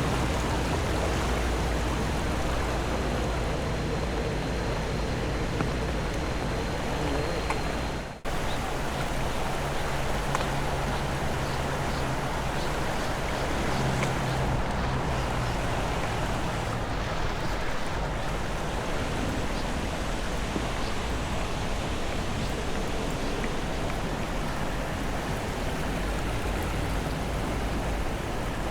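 Steady rushing water, an even noise with no distinct events, broken by a brief dropout about eight seconds in.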